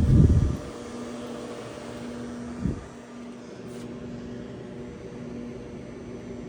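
Steady hum of a powered-up Haas VF-0E vertical machining center. A brief loud low rumble comes at the start, and a short knock nearly three seconds in.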